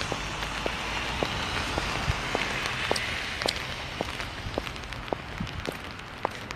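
Steady rain falling, with regular footsteps on wet pavement at a walking pace of about two steps a second.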